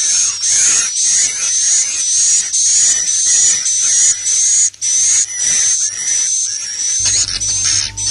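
Swiftlet roosting-call lure recording of the kind played in swiftlet houses: high chirping calls repeated about twice a second, each with a gliding twitter, over a steady low hum that grows louder near the end.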